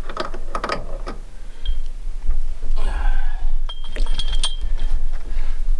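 Metal chain and a stainless steel chain link clinking and clanking as they are worked loose by hand, a few sharp clinks with a short metallic ring.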